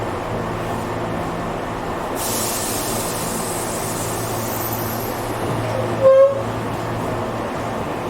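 Tobu 8000 series electric commuter train running, heard from inside the car: a steady rumble of wheels on rail with a low motor hum. A hiss joins about two seconds in, and about six seconds in there is one short horn toot.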